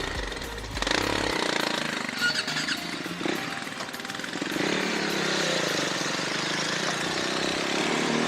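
Motorcycle running while being ridden along a road, a steady mix of engine and riding noise.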